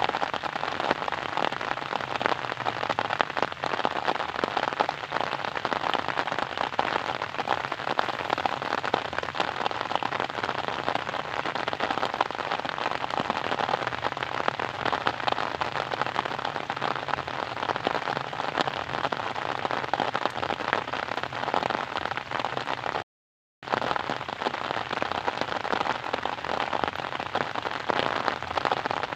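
Steady rain falling, a dense even hiss of many fine drop ticks. It cuts out completely for about half a second roughly three-quarters of the way through.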